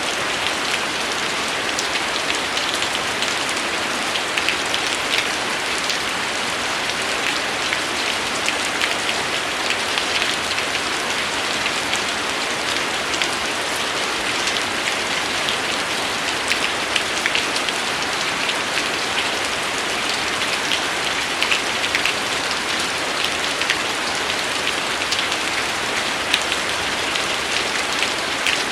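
Steady rain falling: a continuous even hiss with many separate drops ticking through it.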